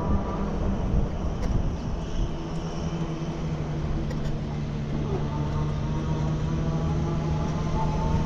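Steady low wind and road rumble from a moving bicycle ride, with a steady motor hum underneath that grows stronger a few seconds in.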